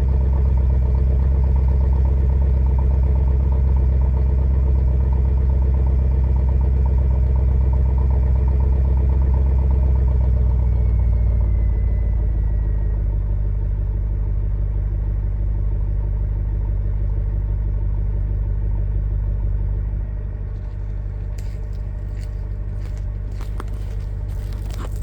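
Volvo S80 4.4 V8 engine idling through its stock exhaust after a cold start. About eleven seconds in the idle drops to a lower, quieter note as the cold-start fast idle settles, with a thin high whine gliding down, and it gets quieter again about twenty seconds in. A few faint clicks near the end.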